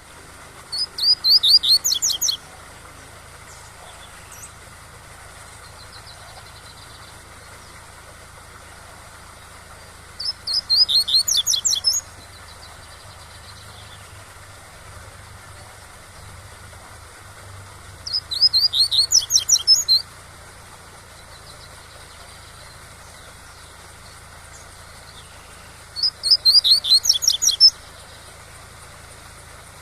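Double-collared seedeater (coleiro) singing the tui-tui song: four short phrases of quick high notes, about one every eight seconds, over the steady rush of a waterfall.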